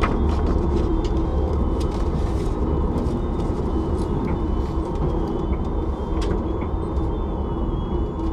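Cabin sound of a Ford Sierra RS Cosworth driving slowly: a steady engine drone mixed with road noise, with a faint high whine above it and a few light clicks.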